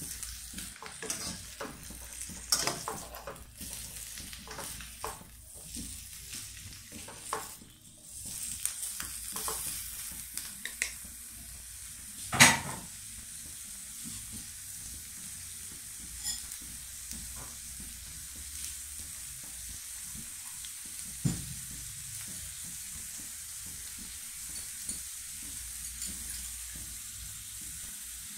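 Cauliflower florets frying in butter in a wok, stirred and scraped with a wooden spatula and metal turner, clicking and scraping against the pan for the first dozen seconds, with one sharp knock about halfway in. After that the pan is left alone and the cauliflower keeps sizzling steadily.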